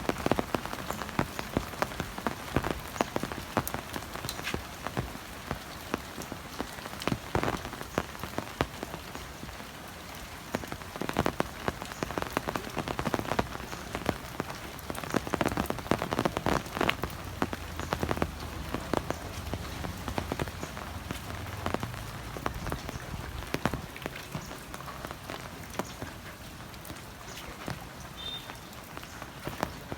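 Heavy rain falling steadily, with many sharp, irregular patters of large drops striking close by.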